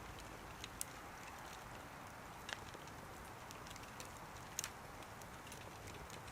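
Wood fire burning in a small wood stove, crackling faintly with a steady hiss and scattered sharp pops, the loudest about a second in and again past the middle.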